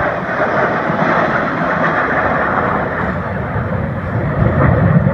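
Jet aircraft engine noise as a plane flies past: a loud, steady rushing sound that swells near the end.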